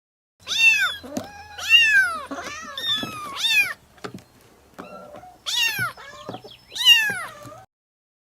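Domestic cat meowing: a series of separate meows, each rising and falling in pitch, with a gap of about a second and a half in the middle.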